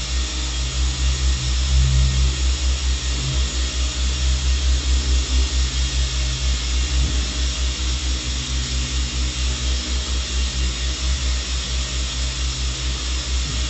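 A steady motor running, with a fast, even low throb of about four or five beats a second under a constant hiss.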